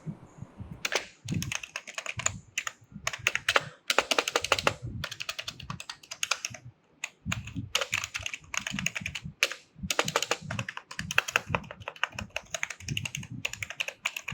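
Ant Esports KM500W gaming keyboard being typed on rapidly to demonstrate its key sound: quick runs of key clicks and clacks, each run about a second long, with short pauses between them.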